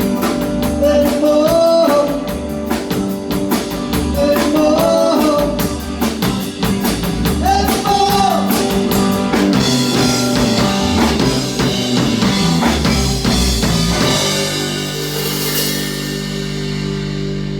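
Live rock band of drum kit and electric guitar playing a song. The drumming stops about halfway through, and for the last few seconds a held closing chord rings out.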